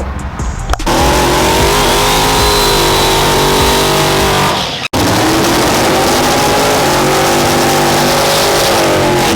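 Drag-racing truck engines running loud at full throttle, their pitch rising slightly and then holding. The sound breaks off abruptly just under five seconds in and comes straight back.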